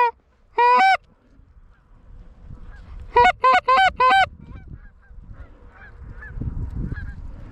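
Geese honking loud and close: two drawn-out honks at the start, then a quick run of four short honks about three seconds in. Fainter honks from geese farther off follow near the end.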